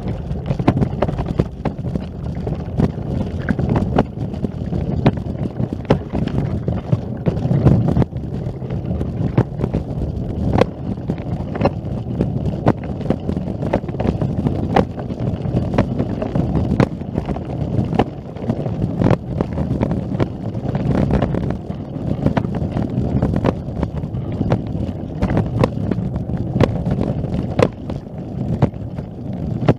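Wind rumbling on the microphone, with frequent irregular clicks.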